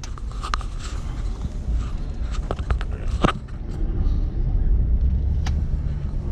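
Low, steady rumble of a car driving, heard from inside the cabin, with a few light clicks and a sharper knock about three seconds in.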